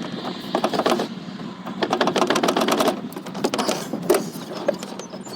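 Hand work on engine parts: runs of rapid clicking and rattling, then a few single clicks and knocks.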